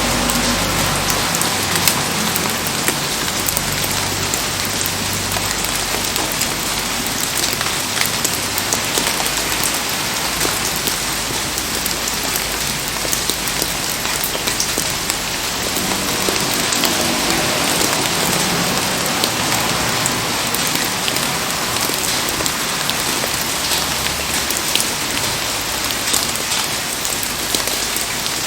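Heavy rain falling: a steady dense hiss of rain with many small sharp drop taps.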